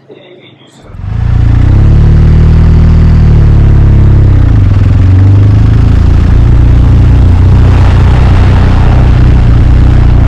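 BMW R 1250 RT boxer-twin motorcycle engine running loud and close, its pitch rising and falling a couple of seconds in as the bike gets under way, then holding steady at cruise. Wind and road rush builds in the second half.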